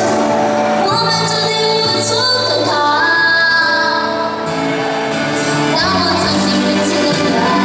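A solo voice singing a Mandarin pop song over instrumental accompaniment, the sung melody rising and falling in held notes.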